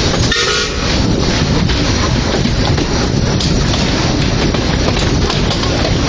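A Quarry Hunslet narrow-gauge steam locomotive and its train running, a dense, steady rumble and clatter. A short whistle toot sounds about half a second in.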